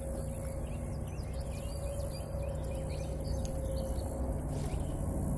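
Birds chirping in short rising and falling notes over a steady low rumble and a high hiss.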